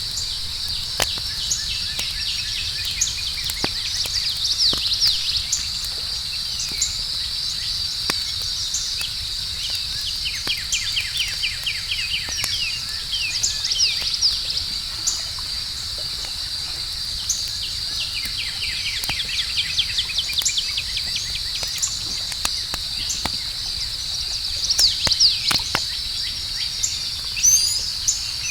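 Night ambience of a steady high-pitched insect chorus with repeated clusters of rapid chirping trills, over sparse crackles and pops of a campfire.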